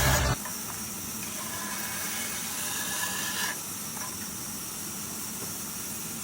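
Music cuts off about a third of a second in, leaving a steady hiss with a faint thin tone that stops about three and a half seconds in.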